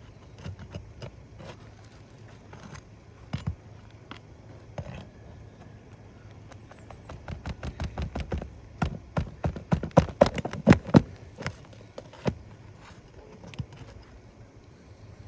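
Series of sharp metal taps and knocks from a shingle nail-removal tool being worked under asphalt shingles to pull roofing nails. It builds to a quick run of several knocks a second, loudest about ten seconds in.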